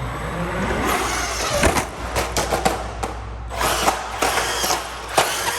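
Traxxas Hoss 4x4 VXL RC truck's electric motor whining as it speeds up, with rushing tyre noise. Several sharp knocks come as the truck strikes the ramp and rail, in the middle and near the end.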